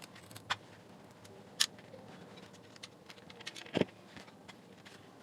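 Faint clicks and taps of screws being fitted to mount a speaker driver in its plastic housing: three short sharp clicks spread over a few seconds, the last and loudest a duller knock.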